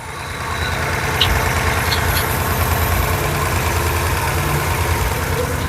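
Porsche 928's 4.5-litre 16-valve V8 idling steadily at about 1000 rpm, a stable idle after an earlier wavering one. The engine grows slightly louder over the first second, then holds an even pulse.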